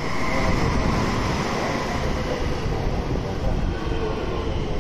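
JR West 223-series electric train running slowly alongside the platform as it pulls in, a loud steady rumble of wheels and motors with a steady whine over it.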